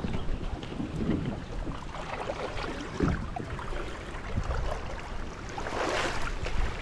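Feet wading through a shallow creek, the water sloshing and splashing irregularly, with a louder splash about six seconds in. Wind rumbles on the microphone underneath.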